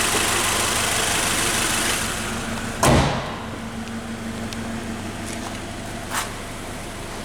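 Scion FR-S's 2.0-litre flat-four boxer engine idling steadily, then a single loud thump about three seconds in, typical of the hood being shut, after which the idle sounds quieter and more muffled.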